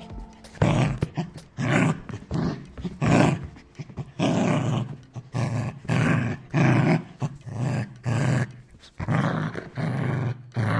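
An animal giving a rapid series of harsh, rasping growl-like calls, about one and a half a second.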